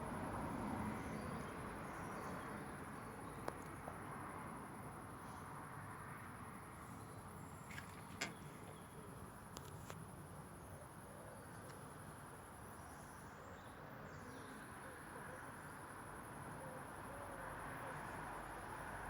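Insects, crickets or bush-crickets, chirring in a steady high-pitched drone that drops out briefly just after the middle, over a low background rumble. A few faint clicks about eight seconds in.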